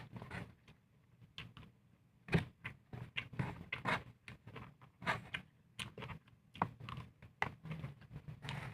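Close-up eating sounds: irregular short clicks, taps and wet smacks of a meal being eaten, several a second.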